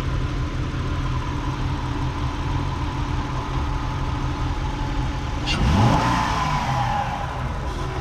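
2003 Acura TL's 3.2-litre V6 idling steadily, blipped once about five and a half seconds in: the revs rise and fall back to idle. It runs evenly now that the cylinder 6 misfire from a bad injector is fixed.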